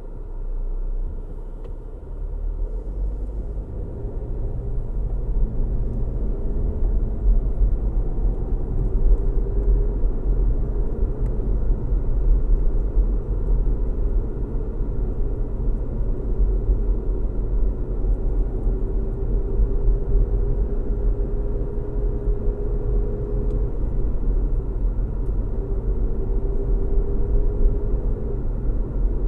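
Car driving road noise: a steady low rumble of tyres and engine that builds over the first few seconds and then holds, with a faint whine that wavers slightly in pitch.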